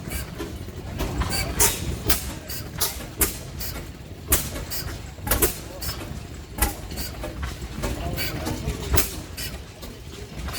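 Antique oil field engines running, several at once, each firing with slow, irregularly spaced exhaust pops over a steady low rumble.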